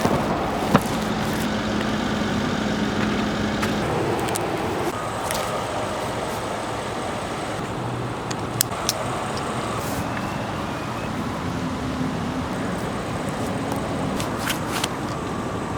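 Steady vehicle noise with a few brief clicks.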